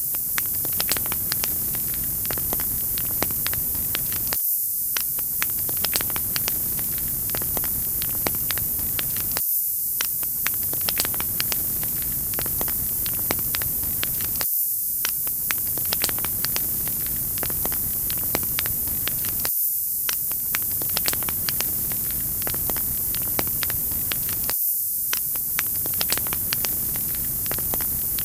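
Wood fire crackling, with frequent small sharp pops over a steady loud hiss. The sound repeats as a loop about every five seconds.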